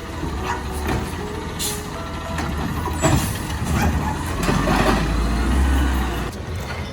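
Recycling truck working at the curb, its engine rumbling and swelling louder for about two seconds past the middle, with short beeps and brief hisses over it.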